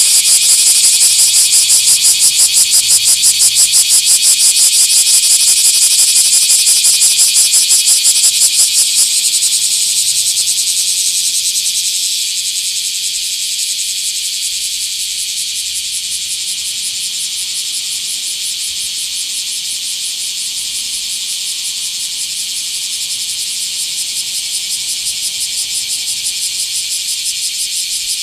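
Bear cicada (kumazemi, Cryptotympana facialis) singing, a loud, rapid, pulsing high buzz. It is loudest for the first nine seconds or so, then drops in level and carries on steadily.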